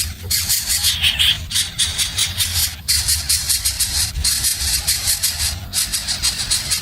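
Baby birds begging: a rapid, raspy hissing chatter in runs of about a second with short breaks, over a low steady hum.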